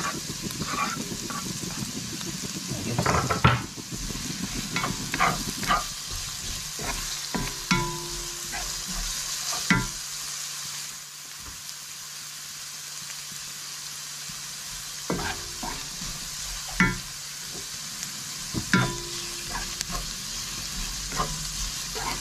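Chopped onion sizzling in margarine in a stainless-steel wok, with a steady hiss, while a wooden spatula stirs it and clacks sharply against the pan now and then.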